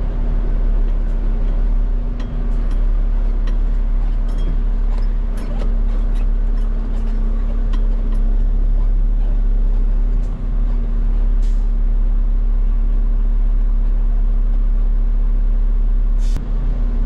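Heavy diesel truck engine idling steadily, a constant low rumble with a hum, heard from inside the cab, with a few light clicks over it.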